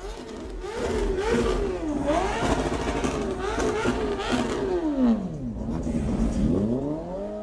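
Car engine being revved, its pitch climbing and falling several times, with a deep drop about five and a half seconds in before it rises again near the end.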